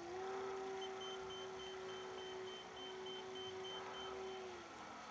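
RC model airplane's engine droning steadily in flight, its pitch rising slightly near the start and falling away near the end. A rapid run of short, high electronic beeps, about three a second, sounds over it for several seconds.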